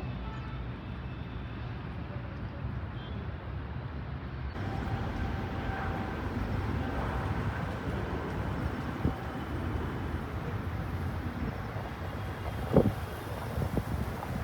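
Steady low outdoor rumble of distant engine noise, with wind buffeting the microphone. A couple of short knocks come near the end.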